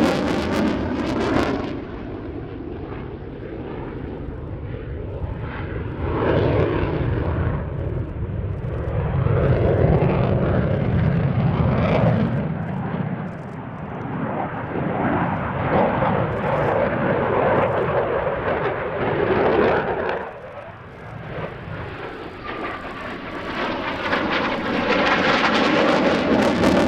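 Jet noise from a Eurofighter Typhoon's twin Eurojet EJ200 turbofans during an airshow display, a loud roar that swells and fades repeatedly as the fighter manoeuvres and passes. It drops about two seconds in, dips again about three quarters of the way through, and builds to a loud pass near the end.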